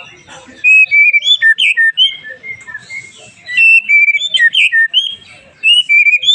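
White-rumped shama (murai batu) singing loud, quick whistled phrases: three bursts of rapid varied notes with short pauses between them.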